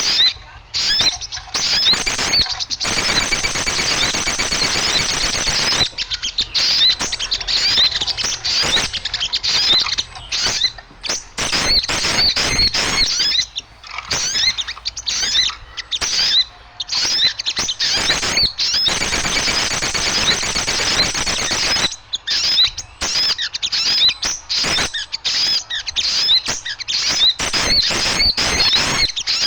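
Many small birds chirping and twittering noisily all at once, a dense stream of quick, high chirps. It is the agitated small-bird chatter played as a lure to draw birds in. The chorus thickens into busier stretches a few seconds in and again about two-thirds of the way through.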